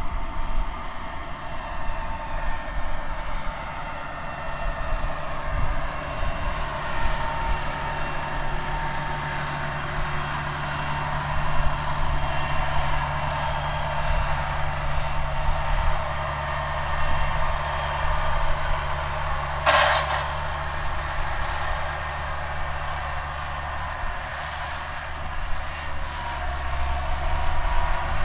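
Case IH Magnum 305 tractor's diesel engine running steadily while pulling a planter, with a short hiss about twenty seconds in.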